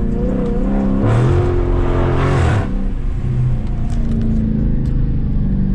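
392 HEMI V8 exhaust with the mufflers deleted, run hard under acceleration. About a second in the engine note climbs with a rising rush, then drops back just before the halfway point and settles into a steadier drone.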